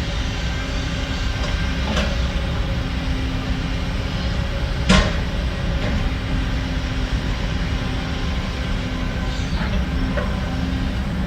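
Heavy diesel construction machinery running steadily, with a few sharp knocks over the engine noise, the loudest about five seconds in.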